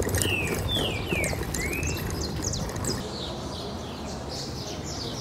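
A small bird gives four quick rising and falling chirps in the first two seconds, with more faint chirps later. Underneath is a steady low rumble and rattle of a bicycle rolling over a concrete paver street.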